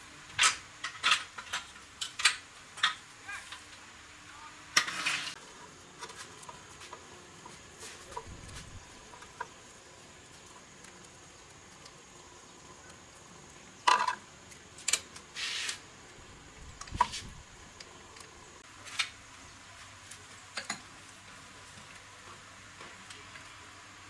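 Metal tools and motorbike parts clinking and clattering as they are handled: a quick run of sharp clinks at the start, a short clatter about five seconds in, another cluster around the middle, then a few single clinks.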